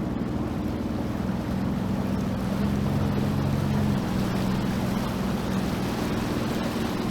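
Sea-Doo Fish Pro jet ski engine running steadily under way, with the rush of water and wind. The engine note rises a little and eases back about four seconds in.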